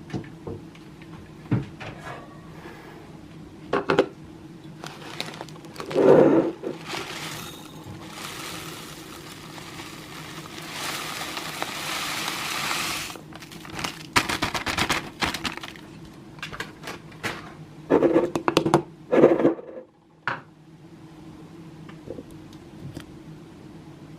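Kitchen containers and food packages being handled and put away: scattered knocks and clinks of items set down. A stretch of steady rustling hiss comes in the middle, from about a third of the way in to about halfway. A low steady hum runs underneath.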